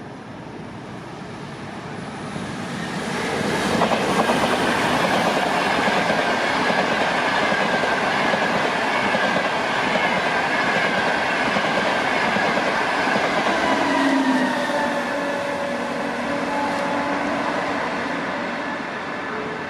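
A train passing through a station without stopping. It builds up over the first few seconds and stays loud, with a high whine that slowly falls in pitch, then eases slightly near the end.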